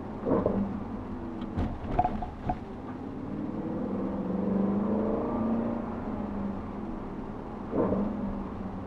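2013 Audi RS5's V8 running through an aftermarket Capristo exhaust, its note rising and swelling in the middle, then easing off. A few short sharp knocks sound near the start and again near the end.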